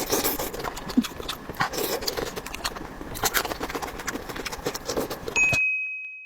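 Close-miked eating sounds: mouth noises and crunching with many sharp clicks and crackles. Near the end they cut off abruptly, leaving a thin high tone that fades away.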